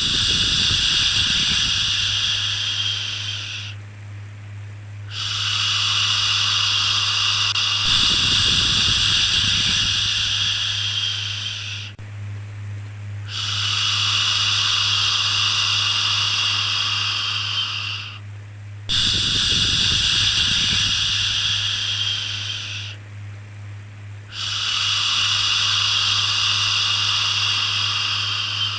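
Repeated long 'shhh' shushing sounds for soothing a baby, each lasting about four to six seconds, with brief pauses of about a second between them. A steady low hum runs underneath.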